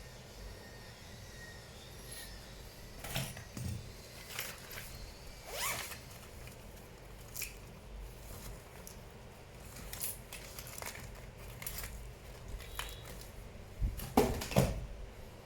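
Scattered short scrapes and clicks of hands and small tools working on laptop parts during disassembly, the loudest a close pair of scrapes near the end.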